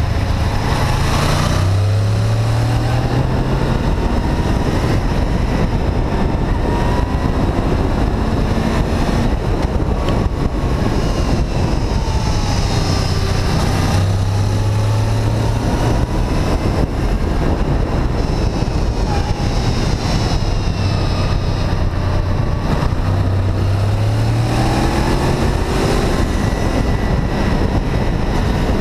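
Honda VFR800 VTEC's V4 engine running on the move under a steady rush of wind noise, its revs rising and dropping several times as the bike accelerates and shifts.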